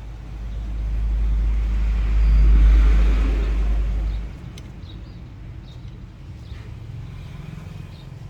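A road vehicle passing by: a low rumble that swells, peaks and fades away over about four seconds. After it, faint light ticks.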